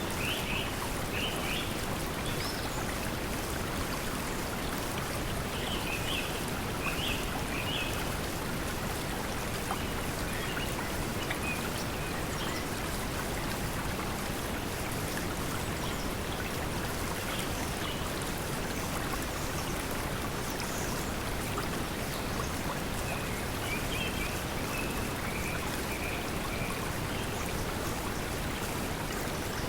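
Steady pink noise mixed with a flowing stream, with clusters of short high bird chirps near the start, about a quarter of the way in, and again toward the end.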